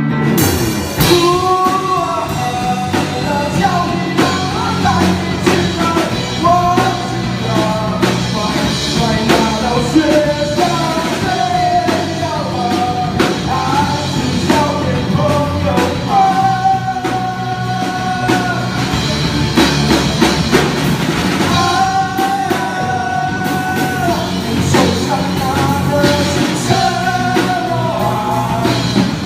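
A rock band playing a song: a sung vocal line over drums and guitars, with some long held notes in the second half.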